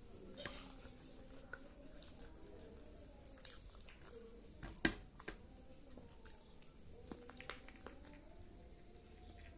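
Quiet, close chewing and mouth sounds of someone eating chicken and rice, with scattered small clicks and one sharper click about five seconds in.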